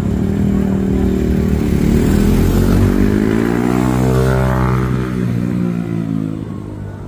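A motor vehicle's engine running close by, its pitch bending about four to five seconds in as it passes, then fading toward the end.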